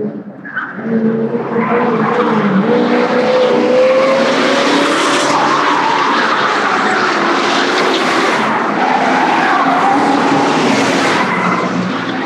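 A car engine revving hard under a dense rush of tyre skidding and squeal, loud and sustained, with a slowly rising engine pitch.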